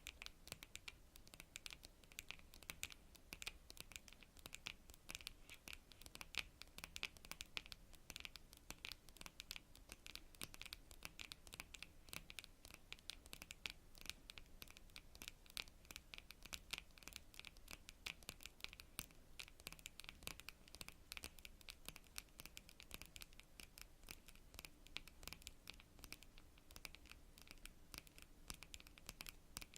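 Long natural fingernails tapping and scratching on cards: a quick, unbroken stream of faint, crisp clicks, many per second.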